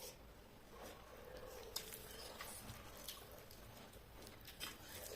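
Faint eating sounds of a person chewing chicken and rice, with a few small, sharp mouth or hand clicks scattered through.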